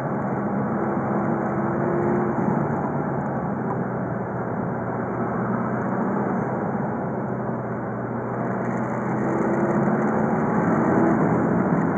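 VW Golf V 2.0 TDI (BKD) four-cylinder turbodiesel running under way at a fairly steady pace, with road and tyre noise. The engine note rises a little about nine seconds in and eases again near the end.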